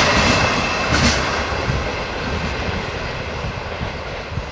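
Container freight train's wagons rolling away on the rails, the rumble of the wheels fading steadily as the tail of the train recedes, with a sharp clack of the wheels about a second in.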